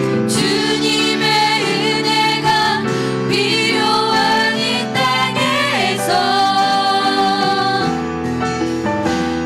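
A live church band plays a slow worship song, with sung, long-held notes over sustained instrumental chords.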